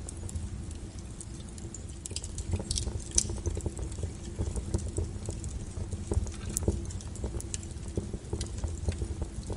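Wood fire burning with a low steady rumble and irregular crackles and pops, several a second, a sharper pop about three seconds in.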